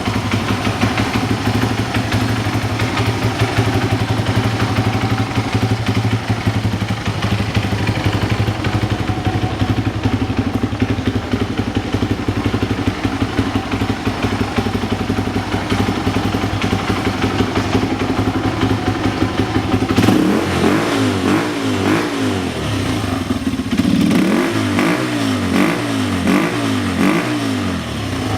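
Honda Ape 100's single-cylinder four-stroke engine running through an aftermarket custom muffler: it idles steadily, then about two-thirds of the way through it is blipped several times in quick succession, paused briefly, and blipped again in a second series of quick revs.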